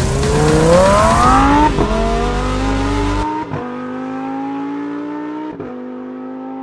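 Lamborghini Huracán Performante's naturally aspirated V10 accelerating hard through the gears, its note climbing in runs broken by three quick upshifts, each gear rising more slowly than the last. Music plays underneath for the first half.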